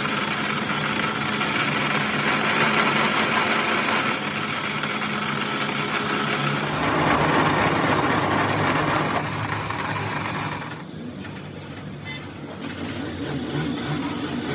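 An engine running steadily, with a broad hiss over it; a little after ten seconds in, the hiss drops away and the sound goes quieter for a couple of seconds, then builds back up.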